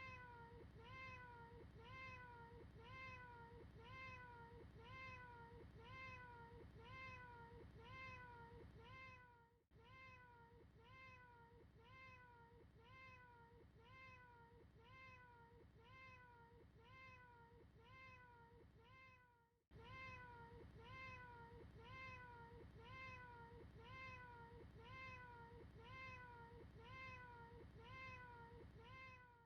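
A cat's meow looped over and over, about two short meows a second, each with a quick rise and fall in pitch. The loop breaks off for a moment about a third of the way in and again about two-thirds in.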